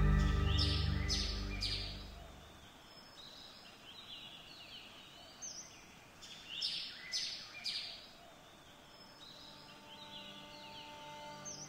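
Background music fading out over the first two seconds, then birdsong: short high chirps coming in a few groups over a quiet outdoor ambience.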